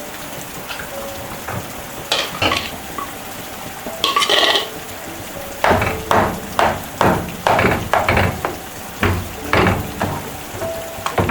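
A utensil stirring and scraping in a cooking pot, in a regular run of about two strokes a second from about halfway, with a few separate knocks before that, over a steady hiss.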